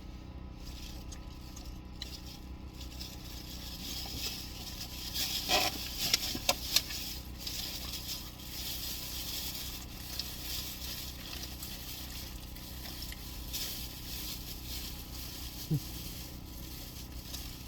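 Rustling and crinkling of takeout food packaging, with a few sharp clicks about five to seven seconds in, over a steady low hum inside a car.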